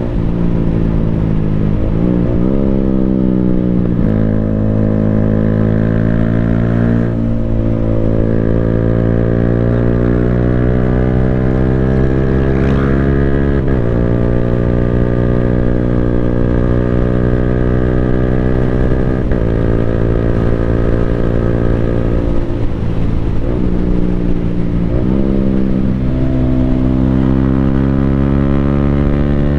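Yamaha Sniper 155R's single-cylinder engine running through an Akrapovic full-system exhaust while under way, holding fairly steady revs. The pitch dips sharply and climbs back several times, at gear changes.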